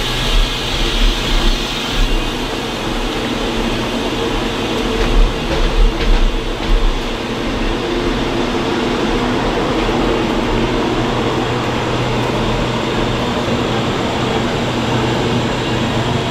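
Passenger train coaches rolling past, their wheels thudding over rail joints through the first several seconds. After that a steady rumble with a low hum carries on as the train draws away.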